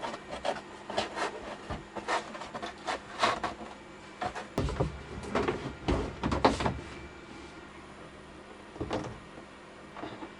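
Handling noises: a string of knocks, clunks and scrapes as things are picked up and moved about, heaviest in a cluster of thuds around the middle, then quieter.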